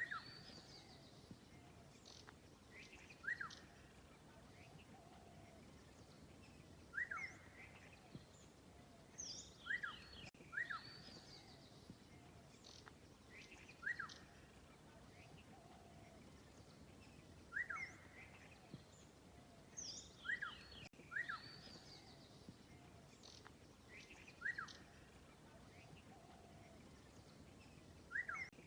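Birds chirping: short, sharp repeated calls every couple of seconds, with some higher twittering, over a faint steady background hiss.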